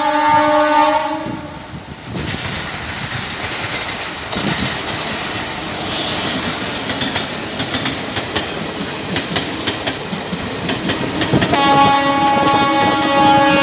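An approaching electric locomotive sounds its multi-tone horn, which stops about a second in. The Garib Rath Express passenger train then passes close by at speed, its wheels beating a rapid clickety-clack over the rail joints. About two seconds before the end, a train horn sounds again and is held.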